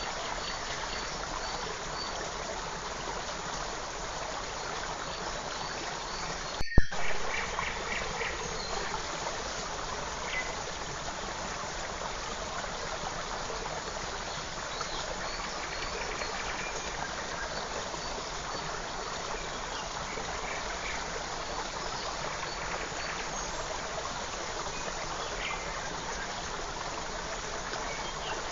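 Steady rushing of a small forest stream, with faint short bird chirps now and then. About a quarter of the way in, the sound cuts out for an instant with a sharp click.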